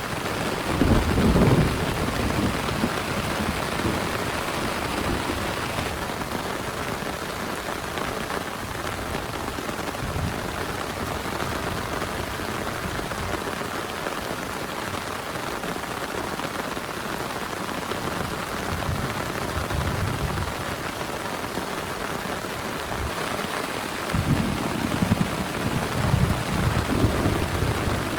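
Heavy rain pouring steadily, with low rumbles of thunder about a second in and again over the last few seconds.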